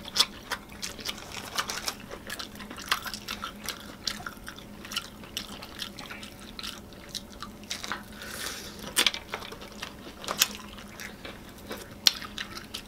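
Wet chewing and lip smacking of people eating fried chicken, an irregular run of short clicks and smacks.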